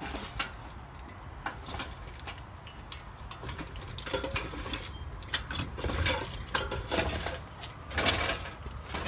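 Irregular metallic clinks and knocks, like a hoist chain and engine parts rattling, as a Scion tC engine is worked up and out of the engine bay on a hoist. The knocks get busier about halfway through, with the loudest near the end.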